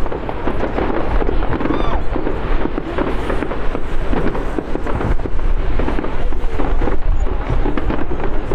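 Fireworks display heard from a distance: a dense, continuous crackle of bursts over a low rumble.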